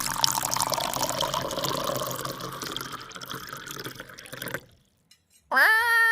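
Water splashing and pouring for about four and a half seconds, then cutting off abruptly. After a short silence, near the end, an animal gives a high, whining cry.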